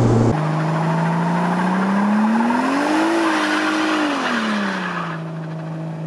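Turbocharged Toyota Supra inline-six in a VAZ-2104 revving up over a couple of seconds, holding high and dropping back about five seconds in, as the rear tyres spin and squeal in a smoky launch. The engine then settles to a steady note as the car pulls away.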